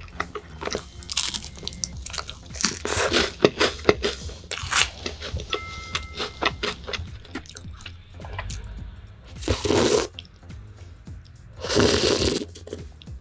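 Close-miked chewing of a toasted marshmallow: many short wet clicks and crunches. About halfway there is a brief two-note tone. Near the end come two loud slurping sips of hot chocolate from a mug.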